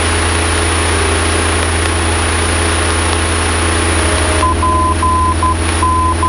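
Steady drone of a Cessna 172's engine and cabin noise. About four and a half seconds in, a steady high-pitched tone begins keying on and off in short and long pieces: the Morse code identifier of the Paradise VOR (PDZ), which spells out P (dot dash dash dot) and then D (dash dot dot).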